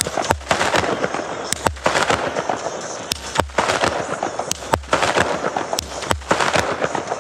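A consumer multi-shot firework battery firing. A launch thump comes roughly once a second, with sharp bangs and a dense crackle in between.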